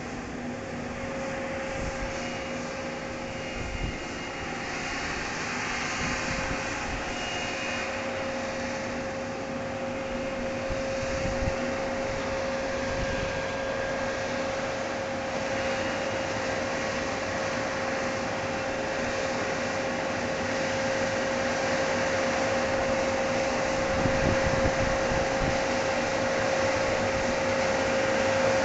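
Grape harvesting machine running steadily, a steady whine over its engine noise, growing gradually louder toward the end.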